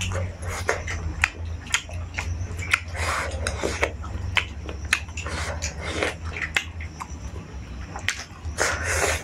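Close-miked eating of fried chicken and rice by hand: biting and chewing, with many short wet mouth clicks at irregular intervals over a steady low hum.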